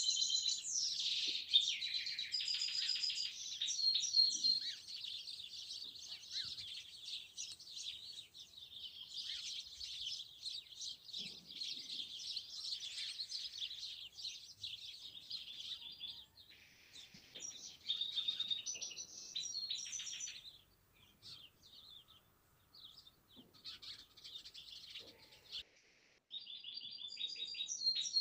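A chorus of many small songbirds chirping and twittering at once, with rapid overlapping high calls. It thins to scattered calls for a few seconds past the middle, then returns abruptly at full strength near the end.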